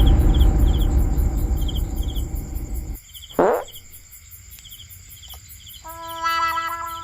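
Crickets chirping in a steady, regular rhythm under added sound effects: a loud low rumble that fades out about three seconds in, a quick falling whistle just after, and a brass-like horn note near the end.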